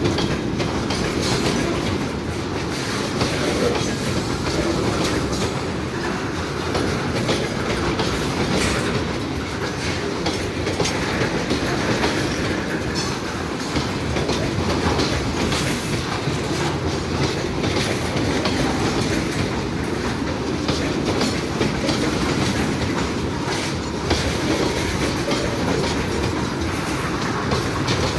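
A train rolling past at close range: steady wheel-on-rail noise with clickety-clack as the wagons' wheels cross the rail joints.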